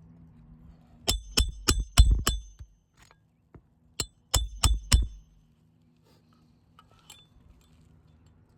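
Hammer driving roofing nails into asphalt shingles: two runs of sharp metallic strikes with a ringing tone, five quick blows and then, after a pause, four more.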